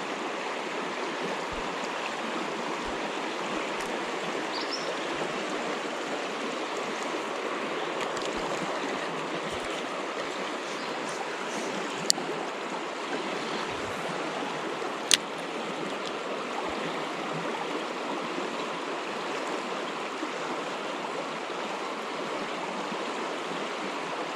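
Swift river current rushing steadily over riffles, with two sharp clicks about halfway through, three seconds apart.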